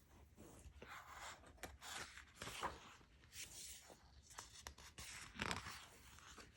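Faint rustling and scraping of paper, a picture book's pages being handled and turned, in short scattered bursts.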